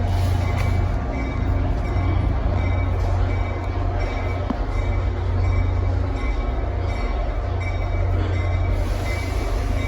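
NJ Transit train giving off a steady, deep hum, unchanging in level.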